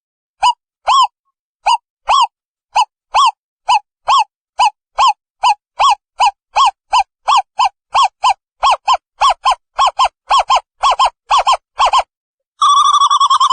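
Owl calling: a series of short hooting notes that speeds up from about two a second to about four a second, then runs into a steady trill for about a second near the end.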